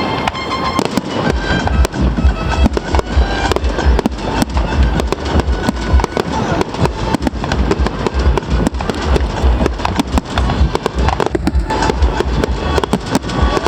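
Fireworks going off: many bangs and crackles in quick succession, with music playing under them.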